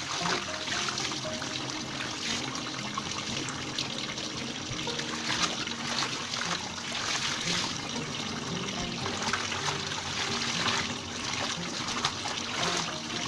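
Water splashing and trickling as laundry is washed by hand in water.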